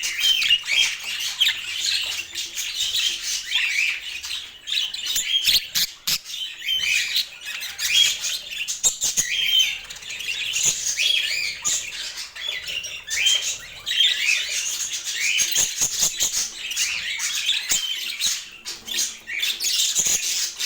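Budgerigars chattering and chirping: a constant run of quick warbling calls with occasional clicks.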